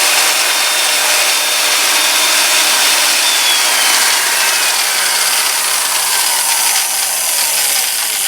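Electric drill with an oiled bit boring into a broken bolt in an aluminum oil filter housing: a steady, loud grinding hiss of cutting, with a thin whine that falls steadily in pitch over the second half.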